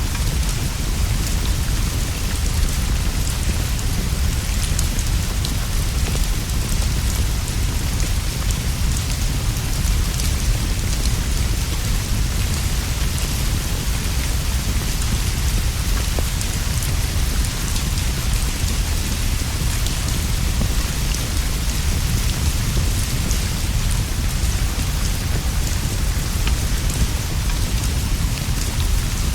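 Steady rainfall with a deep, constant rumble underneath and scattered faint clicks and pops. It keeps an even level throughout.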